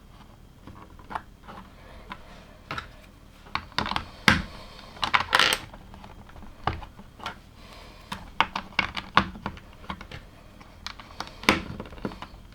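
LEGO plastic bricks and parts clicking and clattering as they are handled and pressed together, in an irregular run of sharp small clicks, busiest about four to six seconds in.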